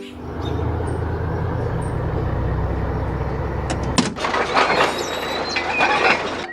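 Tractor engine sound effect running steadily for about four seconds, then cutting off suddenly. It gives way to a clattering, squeaking mechanical noise.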